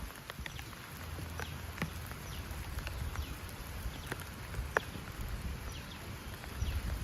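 Scattered raindrops ticking irregularly over a steady low rumble of wind.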